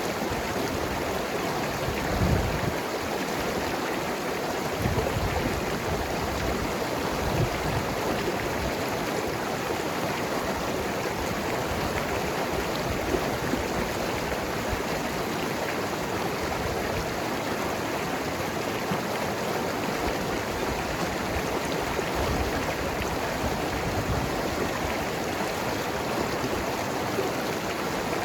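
Mountain river flowing and tumbling over rocks: a steady rush of water with gurgling and occasional low splashes.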